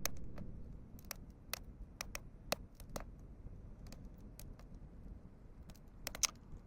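Campfire crackling: irregular sharp pops and snaps from burning firewood, some of it wet, over a low steady rumble, with a quick cluster of pops near the end.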